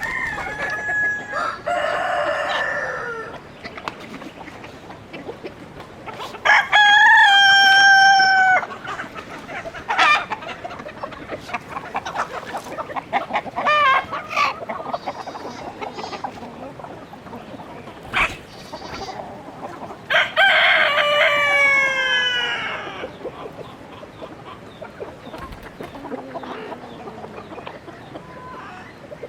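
Chickens calling: roosters crowing three times in long pitched calls, the last one falling in pitch, with hens clucking in short repeated calls in between.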